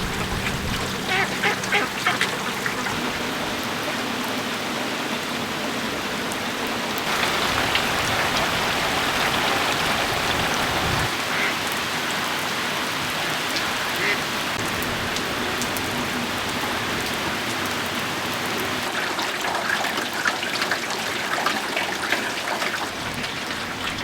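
Steady rain falling, heavier for a few seconds about a third of the way through, with ducks quacking now and then.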